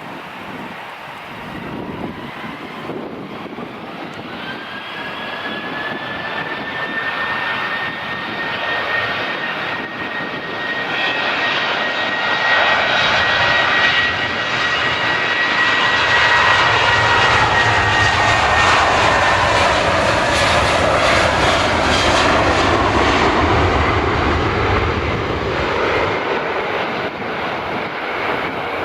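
Jet airliner passing close by: a high engine whine over a broad roar that builds to a peak through the middle, with a low rumble at its loudest. The whine drops in pitch as the aircraft goes past.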